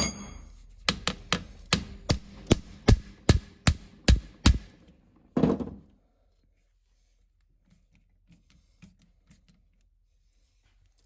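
A hammer striking a hand impact driver to break loose a stuck screw on an old tractor transmission case. It gives about a dozen sharp metal blows, roughly two or three a second, getting louder, then one duller knock.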